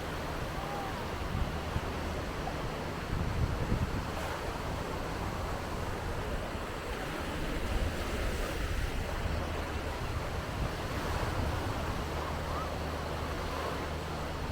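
Sea surf washing onto the beach, a steady rushing noise, with wind on the microphone.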